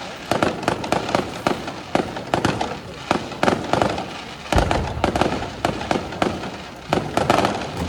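Aerial fireworks going off in quick succession: a dense run of sharp cracks and pops, several a second, with a heavy low boom of a large shell bursting about halfway through.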